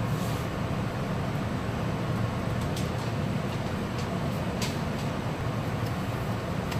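Steady low hum and noise inside a Meitetsu electric train standing at a station, with a few faint clicks.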